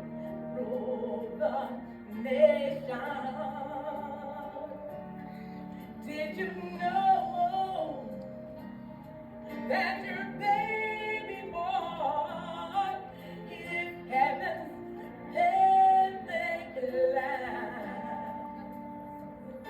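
Music: a woman singing sustained, wavering notes over a soft instrumental backing.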